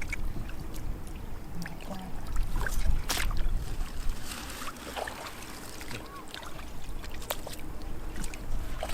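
Water splashing and sloshing, with scattered sharp knocks and clicks.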